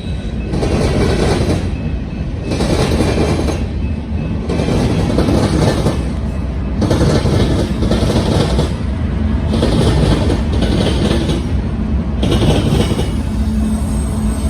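Freight train rolling past close by: a heavy low rumble with a rhythmic clatter that swells and fades about once every one to two seconds as the cars go by.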